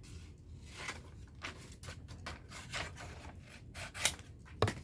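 Small rustles, scrapes and ticks of hands working on a handmade puppet, with a couple of sharper clicks near the end.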